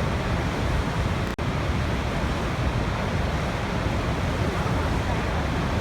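Waterfall rushing in a steady, full, low-heavy roar of falling water, with a momentary break in the sound about a second and a half in.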